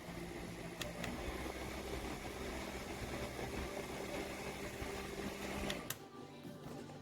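Small battery-powered clip fan's motor running with a steady hum. A couple of clicks come about a second in, and another click comes near the end, where the hum drops away.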